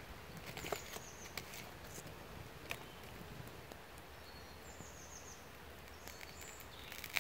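Olive oil heating in a pan over a wood fire, giving faint, scattered crackles as it begins to react, the sign that the oil is hot enough, with a few faint high chirps.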